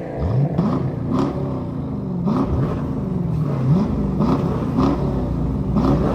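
V8 muscle car engine revved hard over and over, in sharp blips about once a second that rise quickly and fall back, over a low exhaust rumble.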